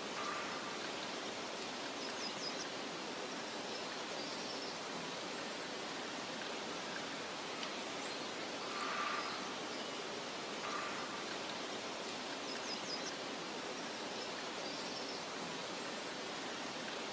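Meadow ambience: a steady soft hiss of wind through grass, with a few faint short bird chirps and a brief louder rustle about nine seconds in. The same pattern comes round again about every ten seconds, as in a looped recording.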